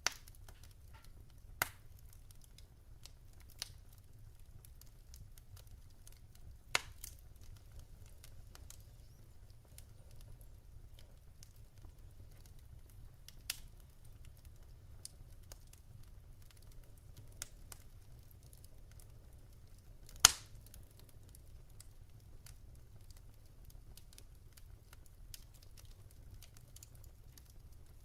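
Wood fire crackling in a fireplace: a low steady rumble of burning logs with scattered sharp pops, the loudest about twenty seconds in.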